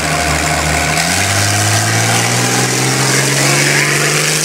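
Engine running loudly, its pitch jumping up about a second in and then climbing slowly as the vehicle accelerates.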